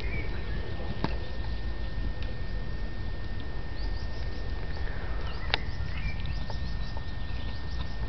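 Outdoor ambience: a steady low rumble with many short bird chirps, thickest in the second half, and two sharp clicks about one second and five and a half seconds in.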